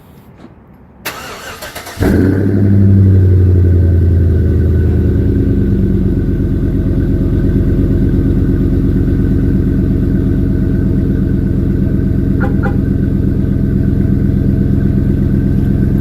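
2005 Chevrolet Tahoe's V8 with a Flowmaster 50 Series exhaust cold-started: the starter cranks briefly, the engine catches about two seconds in with a loud flare, then settles into a steady fast cold idle.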